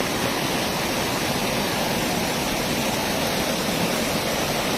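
Fast-flowing floodwater rushing, a steady even noise.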